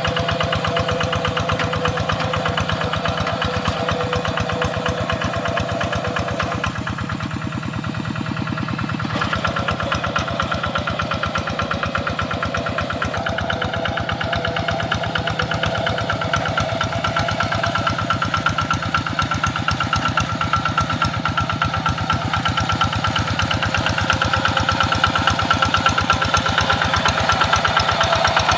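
Tractor engine running steadily with a fast, even firing beat. It eases off for a couple of seconds about a quarter of the way through, then picks up again and grows louder toward the end.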